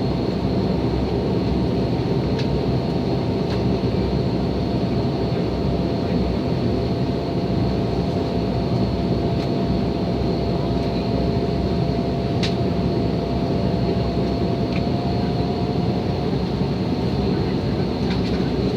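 Airliner engines running at a steady idle before takeoff: a constant low rumble with a thin steady whine over it and a few faint clicks.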